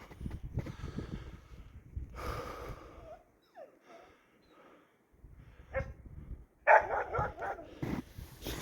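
West Siberian Laika barking: a short, loud burst of barks about two-thirds of the way through, after a faint falling whine.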